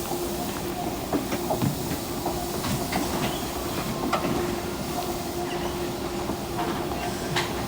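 A Fukuoka City Subway 2000 series car standing at a platform with its doors open: the car's equipment makes a steady hum with one held tone, and scattered short knocks and clicks sound through it.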